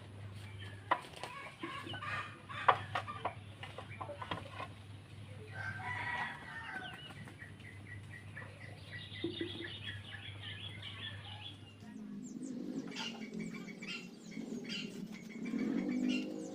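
Domestic chickens clucking and a rooster crowing, with a few sharp knocks in the first few seconds. About twelve seconds in, the background changes abruptly.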